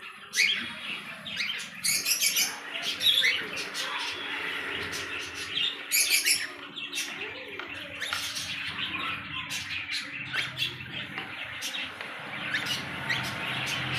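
Cockatiels chirping and calling, many short shrill calls overlapping one another.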